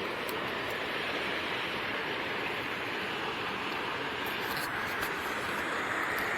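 Fast-moving creek water rushing steadily over rocks, with a few faint clicks about halfway through.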